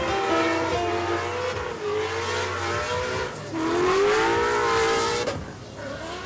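Car engine revving, its pitch rising and holding for a couple of seconds before dropping off near the end.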